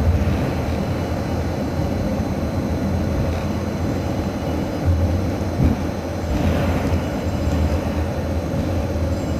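Sleeper train's passenger cars rolling slowly during shunting onto a train ferry: a steady low rumble with a single knock about halfway through.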